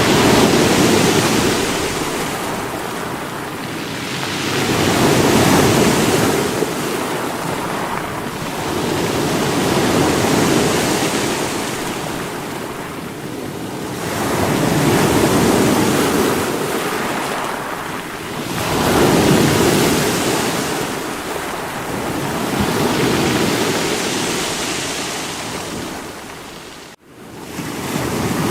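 Sea waves breaking against rocks, the surf swelling and falling back about every four to five seconds, six times. Near the end the sound drops out abruptly for a split second and comes back.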